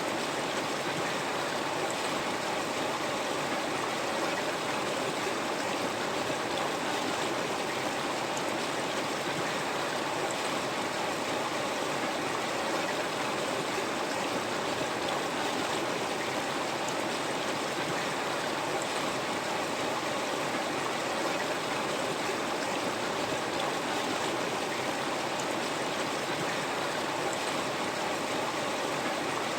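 River water flowing steadily over stones, an even rushing with light trickling and gurgling.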